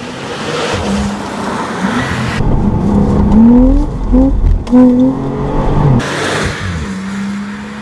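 Porsche 911 Carrera 4 Targa's 3.0-litre turbocharged flat-six accelerating hard. Through the middle the revs climb in quick steps, dropping back at each upshift; near the start and again near the end the engine note is steadier.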